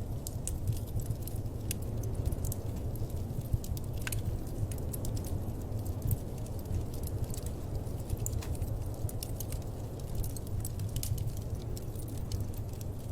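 Wood fire crackling in a fireplace: irregular sharp pops over a steady low rumble.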